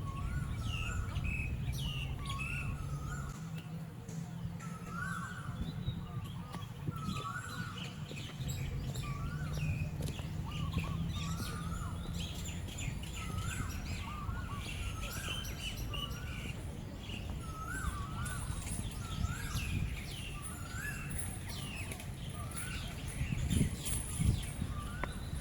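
Birds calling outdoors: one bird repeats a short call roughly once a second, over scattered higher chirps from others. A steady low rumble runs underneath.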